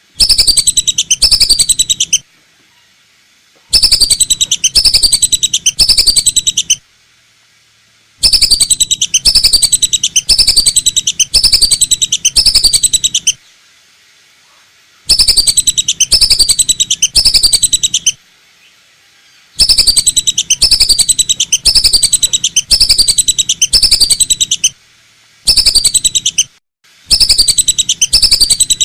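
Lure call of the lesser whistling duck (belibis batu): runs of rapid, falling whistled notes in bursts of a few seconds, separated by short pauses. It is loud and distorted, as from an overdriven playback speaker.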